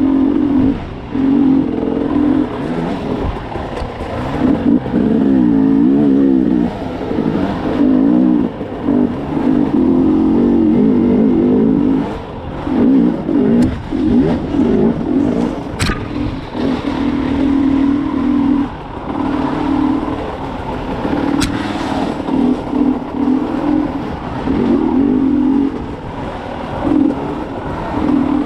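KTM dirt bike engine being ridden hard, revving up and dropping back over and over, its pitch rising and falling with the throttle. Two brief sharp ticks cut through, about halfway and about three-quarters of the way in.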